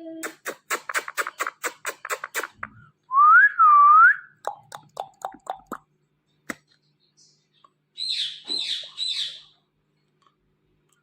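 Indian ringneck parrot whistling and chirping: a fast run of clicks, then one loud whistle that rises, dips and rises again, a few short low chirps, and near the end three high chirps.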